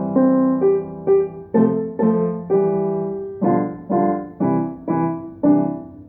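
Piano playing a short, cheerful tune in a major key as an example of how a major key sounds happy or calm. About a dozen notes and chords are struck in an even rhythm, each one fading before the next.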